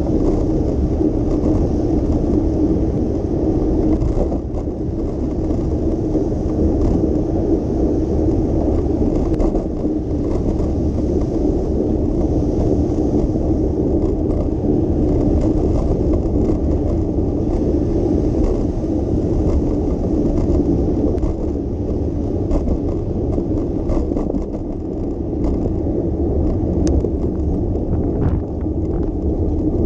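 Steady low rumble of wind and road noise from a moving bicycle, with a fainter hiss above it and a few light clicks near the end.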